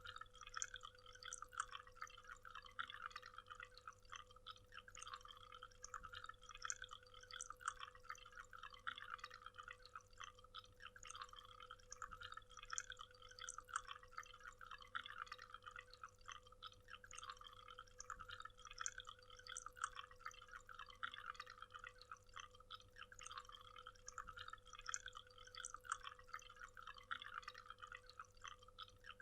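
Faint waterfall water splashing and trickling in a dense, uneven patter, with a thin steady hum underneath.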